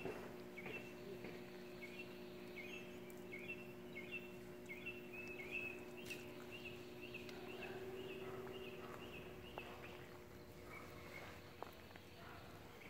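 Quiet outdoor ambience: a small bird chirping short, slightly falling notes two or three times a second, stopping a little after halfway, over a steady low hum and a few faint ticks.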